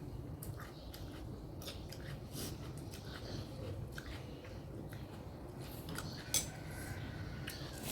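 Eating sounds, close to the microphone: chewing and mouth clicks with scattered small clicks of cutlery, and one sharper click about six and a half seconds in.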